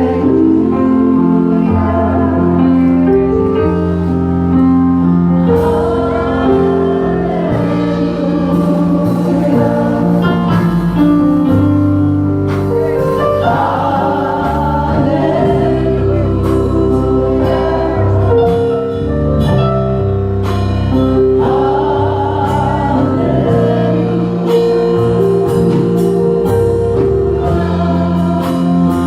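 Gospel music sung by a church choir with instrumental accompaniment: held, wavering voices over sustained bass notes, with percussion strikes joining a few seconds in.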